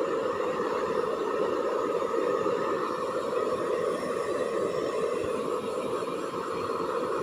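Hair dryer running steadily, an even blowing noise that holds at the same level throughout.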